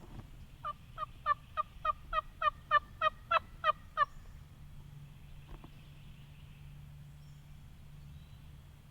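A run of about a dozen turkey yelps, evenly spaced at about three a second, growing louder after the first few and stopping about four seconds in.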